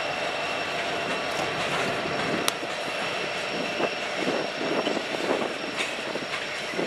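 Empty coal cars of a freight train rolling past: the steady rumble and rattle of steel wheels on rail, with a thin, high wheel squeal held throughout. A sharp click comes about two and a half seconds in, and irregular knocks follow in the second half.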